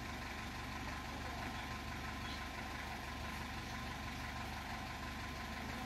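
Steady low engine hum of an idling vehicle, even throughout with no revving.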